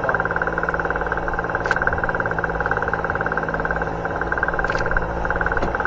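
A fishing boat's engine running steadily with a fast, even pulsing, and a few faint clicks over it.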